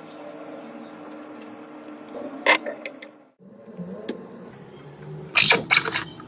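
Sharp clicks and knocks over a steady low hum: one click about two and a half seconds in, and a louder cluster of them near the end.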